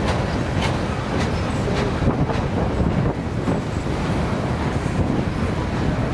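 CN freight train rolling past, wheels clicking about twice a second over a steady low rumble, with wind buffeting the microphone.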